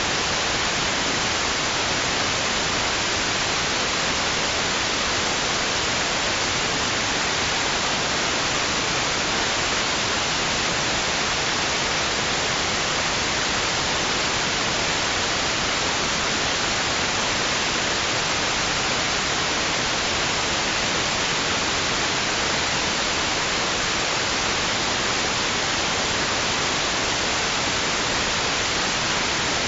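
Steady white noise: an even, unchanging hiss with no rise and fall of waves.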